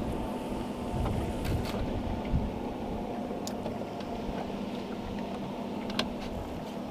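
Wind buffeting the microphone over open water, with a steady low hum underneath and a few light clicks and taps.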